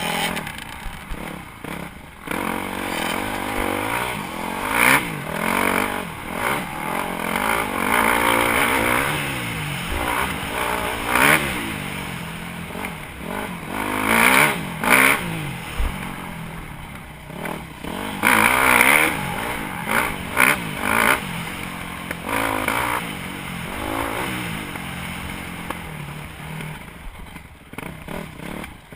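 Yamaha YZ250F four-stroke dirt bike engine, heard close up, revving up and down over and over as the throttle opens and closes through the gears. Repeated loud rushing surges and clatter lie over the engine.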